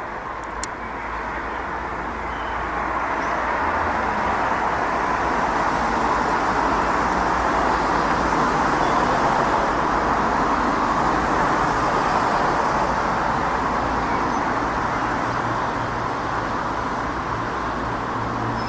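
Boeing 737-600 airliner's twin CFM56-7B turbofan jet engines passing overhead: a steady jet roar that swells to its loudest about halfway through, then slowly fades.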